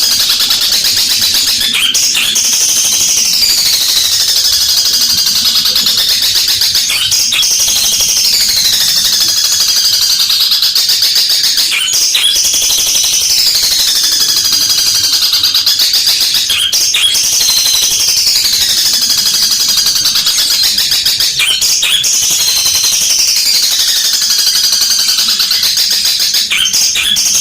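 Long-tailed shrike (cendet) singing a loud, unbroken, fast rattling chatter that mimics fighting house sparrows. A phrase falling in pitch comes back about every five seconds.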